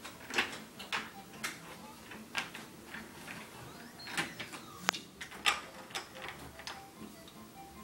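Irregular clicks and clacks of toy trains and track being handled and pushed along by hand.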